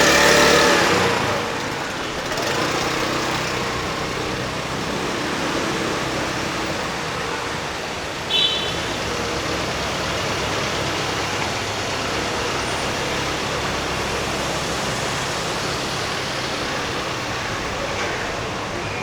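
Road traffic on a city street: a louder vehicle passing in the first second, then a steady wash of traffic, with one short high-pitched beep about eight seconds in.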